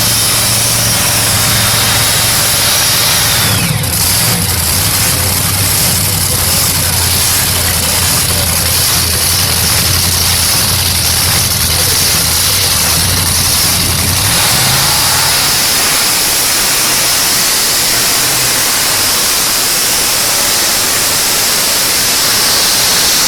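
Pulling tractor's engine running loudly over a dense, steady hiss; its low drone drops away about fourteen seconds in, leaving the hiss.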